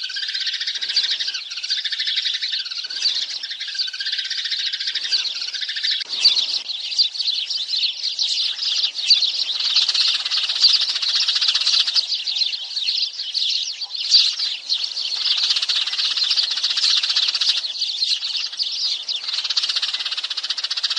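A flock of sparrows chirping in a dense, continuous chatter of many overlapping short chirps, of the kind played as a lure call to draw sparrows to a trap.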